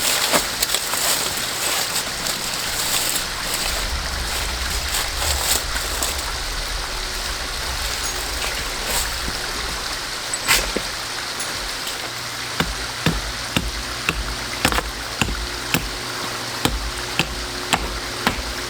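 A mountain stream running steadily. From about two-thirds of the way in, a series of sharp clicks comes about twice a second.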